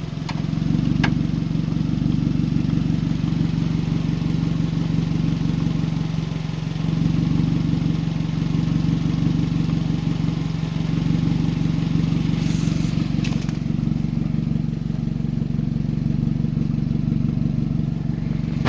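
A car engine idling steadily, freshly jump-started, with a brief click about a second in.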